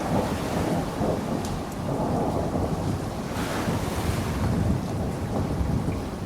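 Steady rainfall over a continuous, swelling low rumble of thunder, with a few faint sharp drop ticks.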